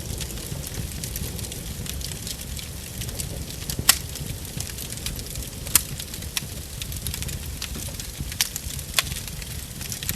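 Wood fire crackling with frequent small snaps and a few louder pops of burning firewood, over a steady low rumble.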